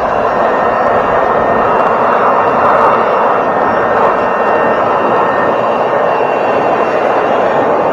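A loud electric motor that has just spun up runs steadily with a rushing-air noise and a faint steady whine.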